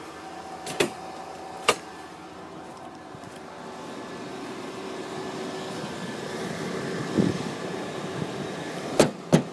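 Sharp metal clicks of a pickup truck's hood latch being worked: two single clicks early on, then two in quick succession near the end. The hood keeps locking back and will not lift.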